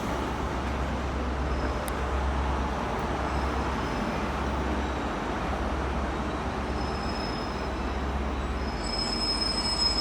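GWR High Speed Train with a Class 43 diesel power car running at the platform: a steady low diesel rumble, with a faint high-pitched squeal in the last second or so.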